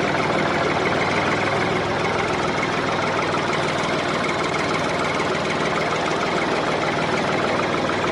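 Tractor engine running at a steady idle, with an even knocking rumble.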